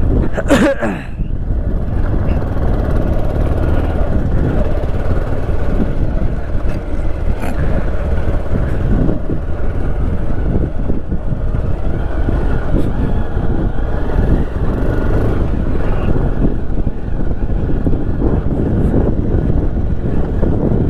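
Motorcycle running on the road, a steady low rumble of engine and wind buffeting on the microphone, with a short sharp sound about half a second in.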